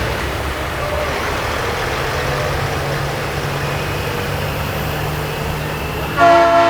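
Custom Peterbilt semi trucks' diesel engines running in a steady low rumble, then about six seconds in a loud air horn blast sounding several notes at once.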